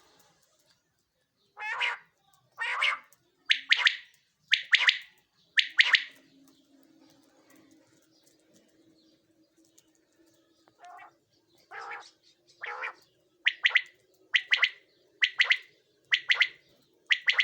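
Caged male common quail (a singing quail) calling in sharp, loud notes about one a second: five in a row, a pause of several seconds, then about seven more. A faint low hum runs underneath through the middle.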